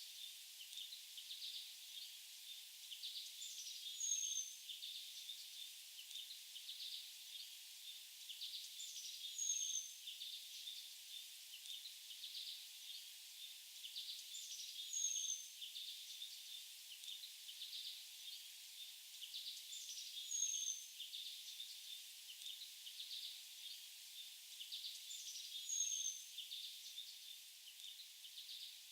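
Faint bird song: the same short phrase repeats about every five seconds, each time a quick high downward note over a burst of chirps, above a soft steady hiss.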